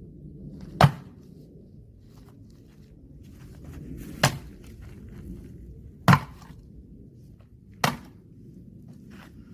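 Four axe blows splitting firewood logs set inside a tire, each a single sharp chopping thunk, a second and a half to three and a half seconds apart.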